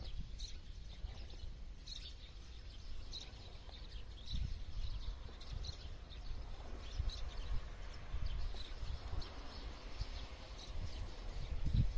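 Small birds chirping now and then in short high calls, over a steady low rumble that grows louder near the end.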